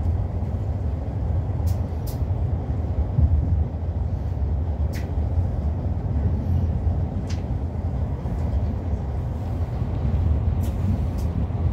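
Steady low rumble of a moving passenger train heard from inside a Mark 4 carriage, running at speed on the line, with a few faint sharp clicks scattered through it.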